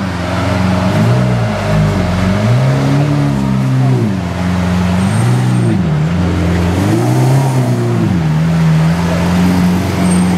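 Lamborghini Aventador LP 700-4's V12 engine being revved in four quick throttle blips, each rising and falling back, then settling to a steady idle near the end.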